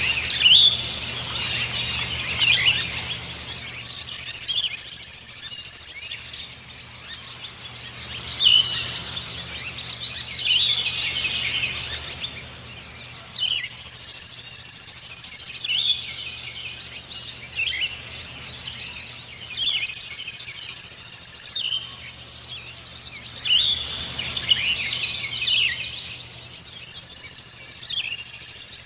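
A songbird singing: long, very high, rapid trills held for several seconds at a time, alternating with bursts of short chirping notes.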